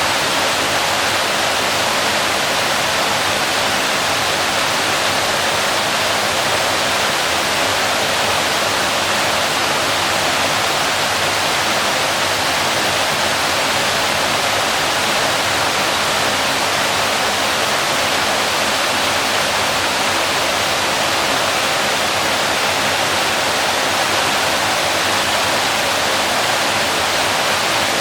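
Waterfall: a steady, dense rush of falling water with no breaks or changes.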